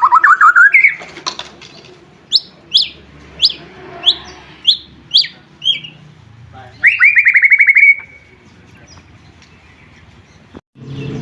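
White-rumped shama singing: a fast trill rising in pitch, then about eight sharp, high, downward-sweeping whistled notes, then another rapid trill. Its song breaks off with an abrupt cut near the end.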